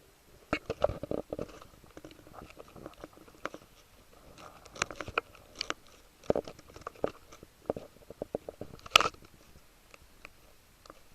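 Scattered heavy raindrops of the first rains striking close by: irregular sharp taps in loose clusters over a quiet background, with one louder hit about nine seconds in.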